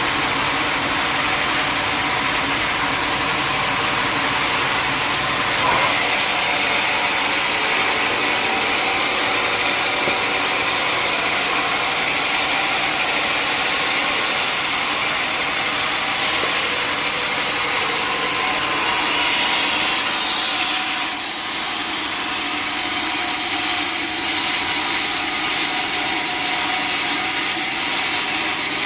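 Sawmill saw cutting through a mahogany log with its engine running steadily under load.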